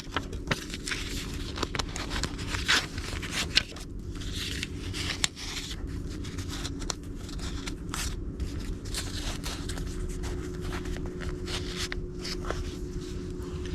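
Small scrapes, rustles and clicks of paper index cards being handled and written on, over a faint steady hum.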